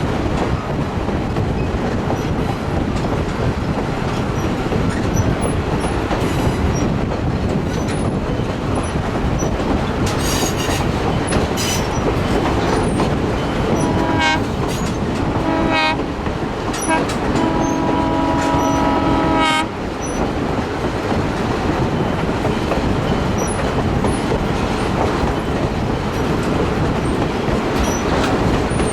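Heritage passenger train running with a steady rumble and wheel clatter. About halfway through, the locomotive horn sounds two short blasts and then a longer blast that cuts off suddenly.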